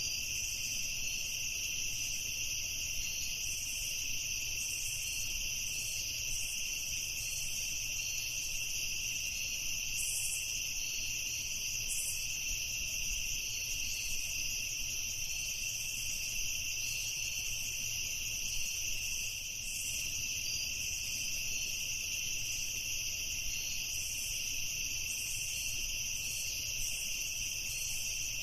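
Crickets chirping in a steady, dense chorus, shrill and unbroken, as at night.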